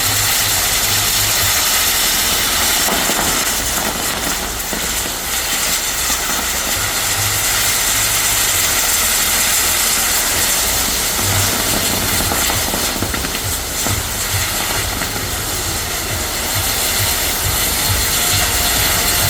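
Ground fireworks burning with a continuous, loud rushing hiss and no distinct bangs.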